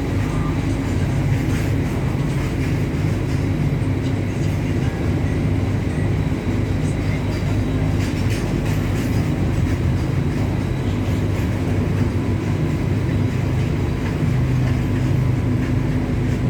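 WAG-9 electric locomotive running on the line: a steady low rumble with faint steady whining tones above it.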